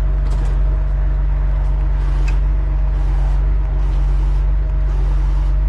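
Heavy tow truck's diesel engine running steadily at an even pitch.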